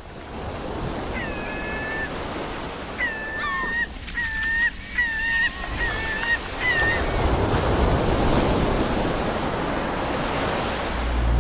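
Geese honking, about seven short calls over a steady rushing noise that gradually grows louder.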